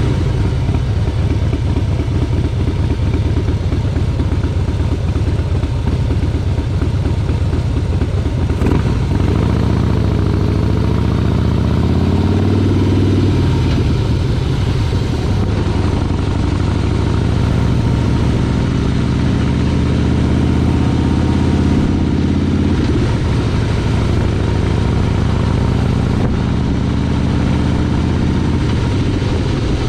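Motorcycle engine running on the move, its pitch climbing slowly twice as it accelerates, then dropping back.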